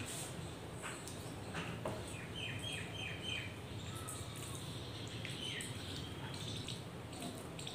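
Crunchy fried snacks being bitten and chewed close to the microphone, in short crackly crunches. A bird chirps a quick run of about five short falling notes about two and a half seconds in, and briefly again later.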